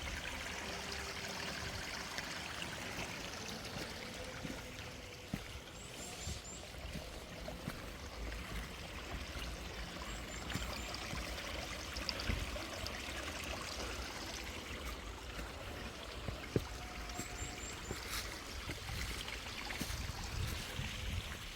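A stream running with a steady rush of water, and a few short, high chirps a few times over the top.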